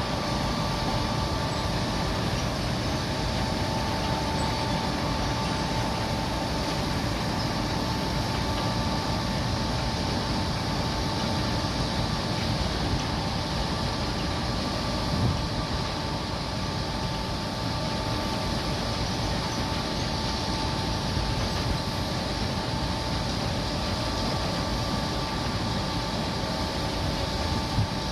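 Truck engine running steadily, with a constant high whine over a low rumble.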